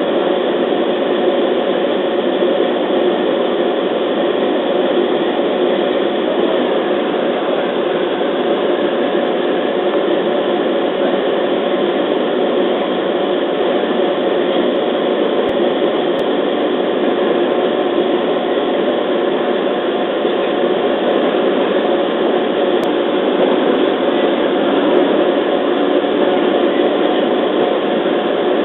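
Running noise of a JR East 211 series electric multiple unit heard from inside the passenger car as it pulls out of a station and gathers speed: a steady mix of traction motor and wheel-on-rail noise.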